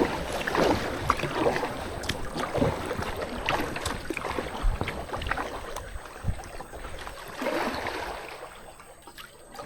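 Kayak paddles dipping and splashing in the water, with drips and the odd knock, dying down near the end as the paddling eases off.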